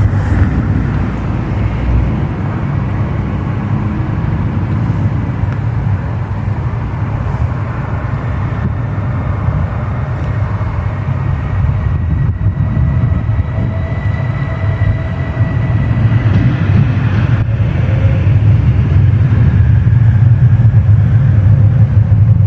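Train running on the line, a steady low rumble that grows louder toward the end.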